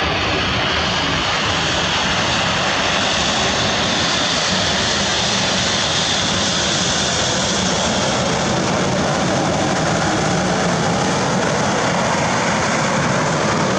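A jet airliner passing close by, its engines making a loud, steady rushing noise, with a hissing band that drifts slightly lower in pitch toward the end.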